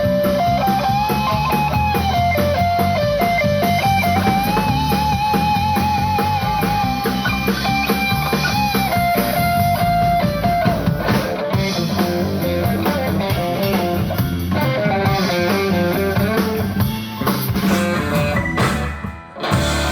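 Live rock band playing: an electric guitar carries a long held lead line with vibrato and bends over bass and drums, then the piece winds down with a brief drop near the end.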